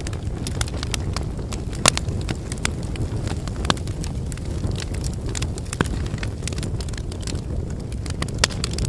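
Campfire burning: a steady low rumble of flame under constant crackling and sharp pops from the burning firewood, the loudest pop about two seconds in.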